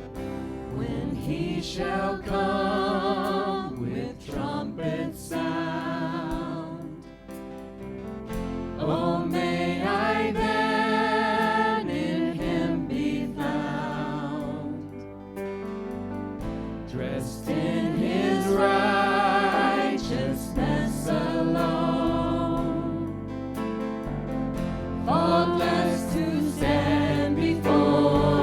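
Worship song in a church service: sung phrases with vibrato over instrumental accompaniment, with pauses between the lines.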